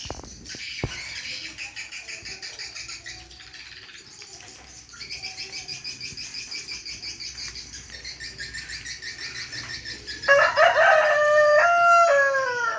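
Rapid, high, pulsing twittering of swiftlets runs throughout. About ten seconds in, a rooster crows once, loudly, for about two and a half seconds, its pitch stepping and then falling at the end.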